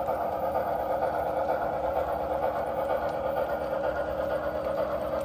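HO scale model train running along the layout's track, giving a steady, even mechanical running noise.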